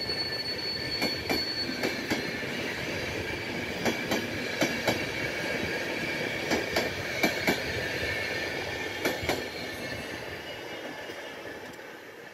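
Passenger coaches of a PKP Intercity train rolling past with a steady high wheel squeal and irregular clacks of wheels over rail joints and points. The highest squeal tone stops about two seconds in and the lower squeal dies out near the end. The whole sound fades as the train draws away.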